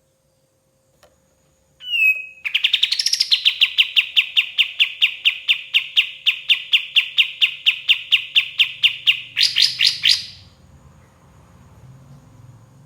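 Kapas tembak songbird singing a fast, even machine-gun run of clear notes, about four a second, that speeds up into a short burst near the end before stopping.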